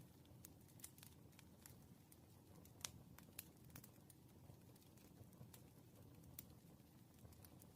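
Faint crackling of a burning wood fire: irregular sharp pops and snaps, the loudest a little under three seconds in, over a steady low rumble.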